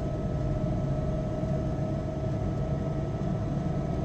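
Engine and road noise from a moving road vehicle, heard from inside it: a steady drone with a faint constant whine.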